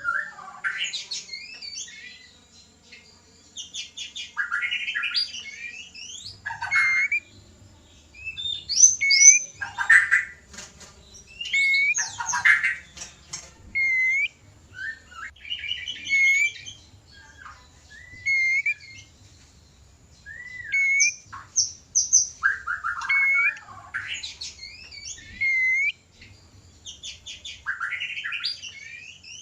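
White-rumped shama (murai batu) in breeding condition singing and calling: short phrases about every two seconds, mixing clear upswept whistles with harsh rattling chatter.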